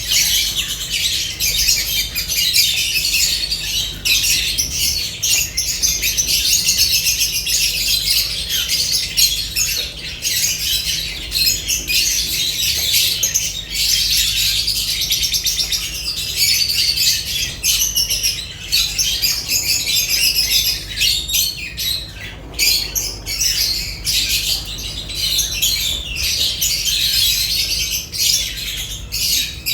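A flock of lovebirds chattering and squawking together, a dense, continuous stream of high-pitched chirps and shrill calls.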